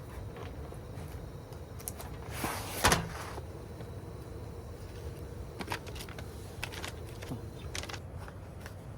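Small clicks and knocks of things being handled, with a short rustling burst ending in a sharp click about three seconds in, over a steady low hum.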